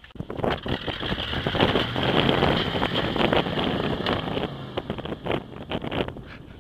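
1982 GMC two-wheel-drive pickup's engine running hard on a hill-climb attempt up slippery dirt, with heavy wind buffeting on the microphone. The noise starts suddenly and stays loud throughout.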